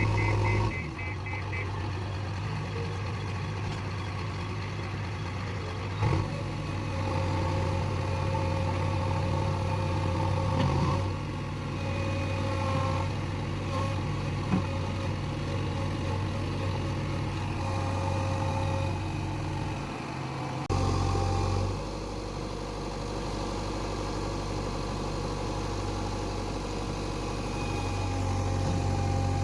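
Backhoe loader's diesel engine running steadily, its note and load shifting every few seconds as the machine works, with one sharp click about halfway through.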